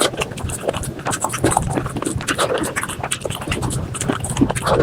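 Close-miked eating sounds of spicy chicken skin and rice, sped up about five times: a dense, rapid stream of wet chewing, smacking and mouth clicks.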